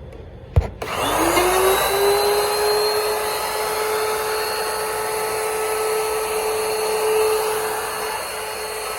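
Trim router switched on with a click, its motor spinning up with a quickly rising whine and then running steadily at full speed.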